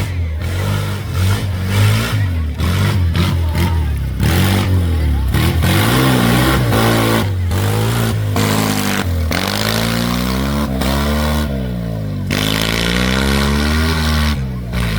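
Tractor engines running, one held at a steady low note while another is revved again and again, its pitch rising and falling every second or two.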